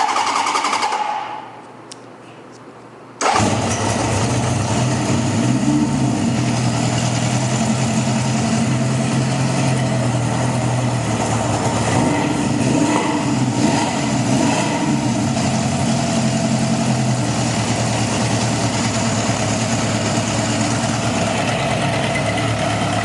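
1975 Honda CB750's air-cooled inline-four, fitted with an aftermarket exhaust, starting from cold: the engine catches about three seconds in and settles into a steady idle, with a few small rises in revs. It runs smoothly, a nice quiet motor.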